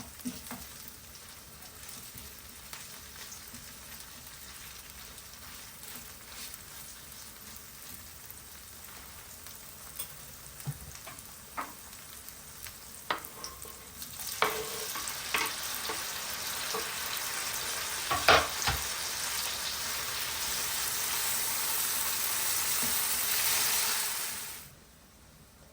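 Food sizzling in a hot frying pan, stirred with a utensil that knocks against the pan now and then. About halfway through the sizzle grows louder and stays that way, then cuts off suddenly near the end.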